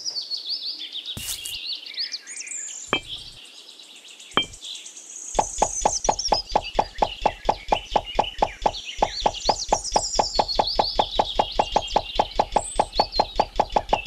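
Birds chirping throughout. About five seconds in, a fast, even knocking starts, about six knocks a second, with a brief break near the middle, and becomes the loudest sound.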